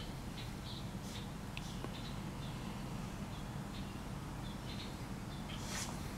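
Faint, scattered high bird chirps over a steady low background hum.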